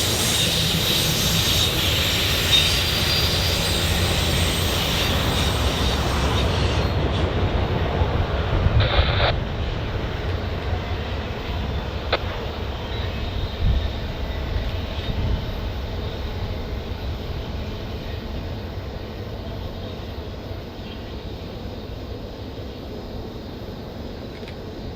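Train passing on steel rails, wheels squealing in thin high tones for the first several seconds, then a short louder rattle about nine seconds in, after which the rumble fades steadily as the train moves away.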